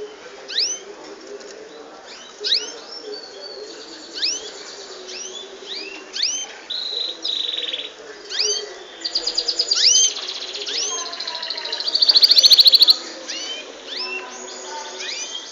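A group of small birds chirping continually, with many short upward-sweeping calls and several buzzy, rapid trills. The loudest trill comes about twelve seconds in.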